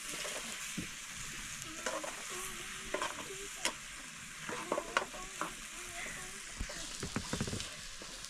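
Food frying with a steady sizzle, with scattered clicks and knocks of stirring.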